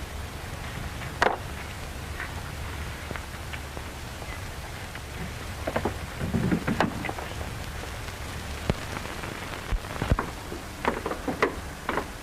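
Worn 1930s film soundtrack running without dialogue: a steady hiss and low hum with scattered crackles and pops.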